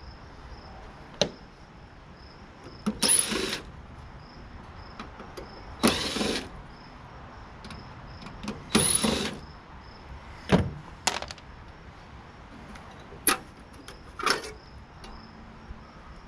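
Tool work on the metal parts of a tankless water heater being dismantled: three short noisy bursts about three seconds apart, with sharp clicks and knocks of metal parts between them.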